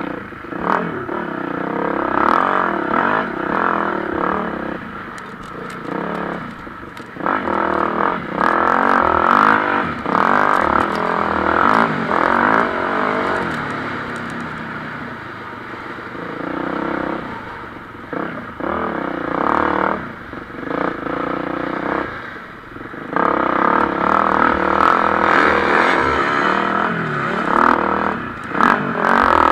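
Motocross bikes racing, their engines revving hard and easing off, the sound swelling and fading in waves as riders pass.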